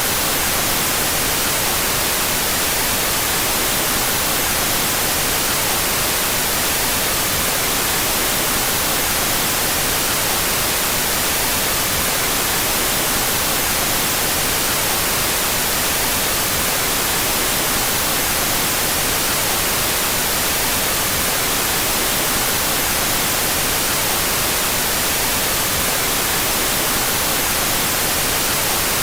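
Steady, unchanging white noise, a constant even hiss with its left and right channels put out of phase.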